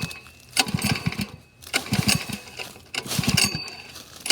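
Coleman CT100U minibike's 100cc engine being pull-started with the recoil starter: about three pulls, each a brief rapid chugging of the engine turning over, and it does not catch. With the choke on, the owner suspects it is flooded.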